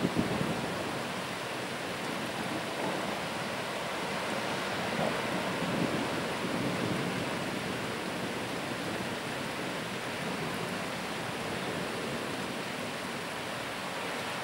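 Heavy rain falling steadily in a thunderstorm, with short low swells in the noise right at the start and again about five to six seconds in.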